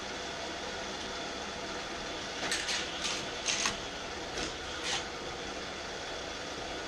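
Battery-powered Hot Wheels Super-Charger booster motor running steadily, with a handful of short clacks a couple of seconds in as die-cast cars run through the plastic track.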